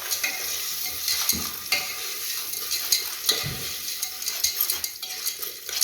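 Popcorn kernels being stirred in hot sunflower oil in the bottom of a pressure cooker: a steady sizzle with frequent short scrapes and clicks from the stirring.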